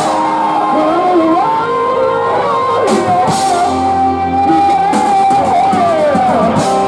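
A post-hardcore band playing live, with long held notes that bend in pitch over a dense, steady wall of sound.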